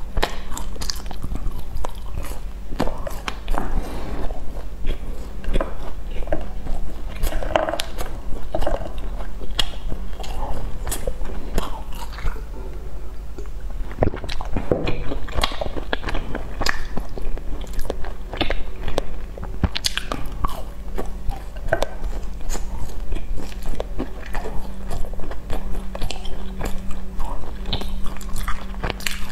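Close-miked biting and chewing of sesame-coated glazed fried pastries: many short mouth clicks and smacks with a little crunch, over a steady low hum.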